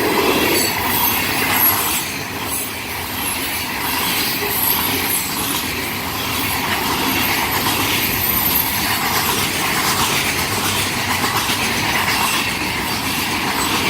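Freight train of rock hoppers and intermodal cars passing at speed, a steady noise of steel wheels on rail.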